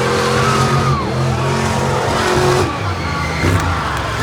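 Monster truck engine revving hard, its pitch rising and falling as the throttle is worked.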